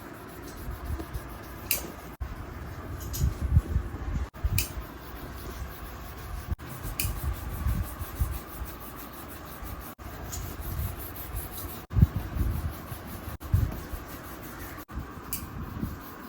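Rubbing and handling sounds over a steady hiss, with irregular dull knocks and a few sharp clicks.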